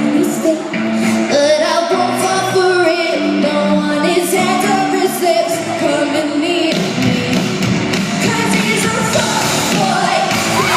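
Live pop-rock band playing with a singer, loud and steady, with a big room sound. About seven seconds in the band gets fuller and denser.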